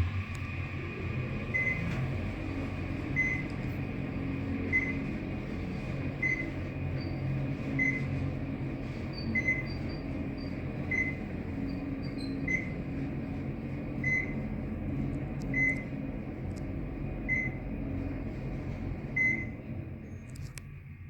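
Dover traction elevator in motion: a steady low hum inside the car, with a short high beep repeating about every second and a half. The hum falls away near the end.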